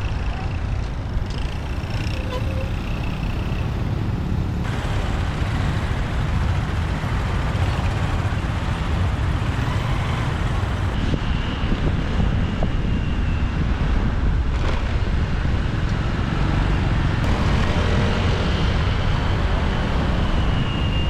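Steady rumble of a motorbike ride through city traffic: the bike's engine and road noise blending with the surrounding vehicles. A faint high tone comes and goes a few times.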